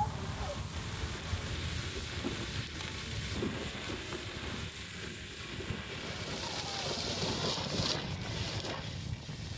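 Landslide in motion: a steady rumble with a broad hiss of sliding earth and debris, the hiss growing brighter around seven to eight seconds in.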